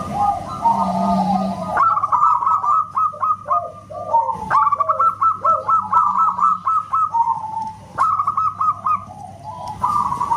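Zebra dove (perkutut) cooing: quick runs of repeated short notes with a whistle-like ring, which pause briefly twice.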